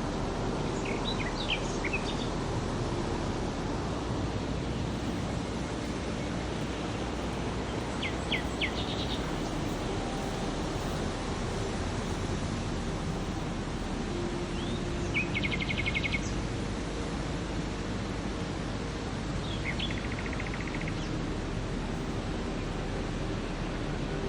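A songbird singing four short songs about six seconds apart, each a few clear notes ending in a fast trill. Under it runs a steady rushing background noise.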